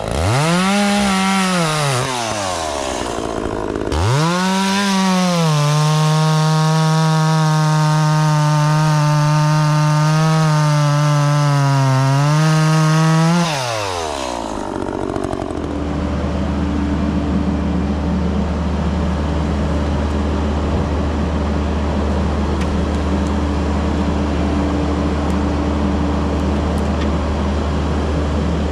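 Two-stroke chainsaw revving up and down, then held at high revs through a cut of wood for about eight seconds before it drops off and stops about 14 seconds in. After that, a second, heavier engine runs with a steady low hum.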